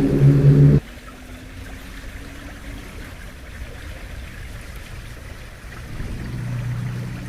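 A heavy engine running loud, cut off abruptly about a second in, leaving the steady rush of a flowing stream. A low engine hum rises again faintly near the end.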